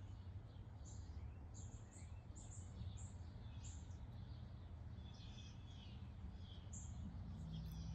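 Faint ambience of small birds chirping, many short high notes coming every half second or so, over a steady low rumble.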